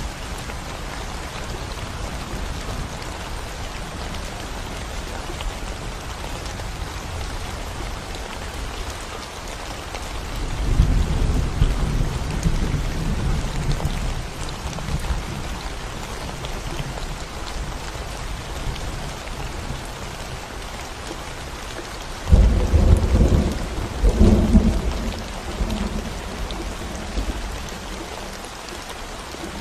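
Steady rain falling on a concrete road and surrounding plants. Two low rumbles of thunder come through it: one swells about ten seconds in, and a sharper one breaks suddenly about two-thirds of the way through, rolling in several peaks.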